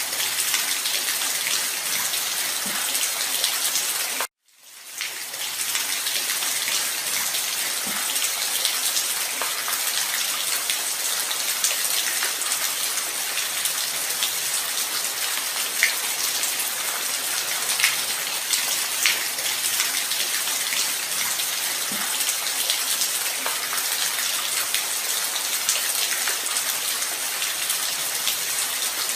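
Steady light rain, an even hiss with scattered individual drop ticks. About four seconds in it cuts out to silence for a moment and fades back in over about a second.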